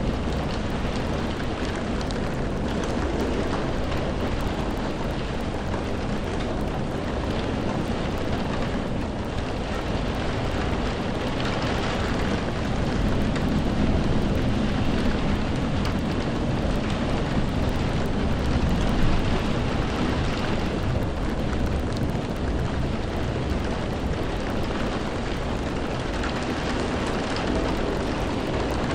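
Steady rain with a deep low rumble beneath it, swelling slightly a couple of times.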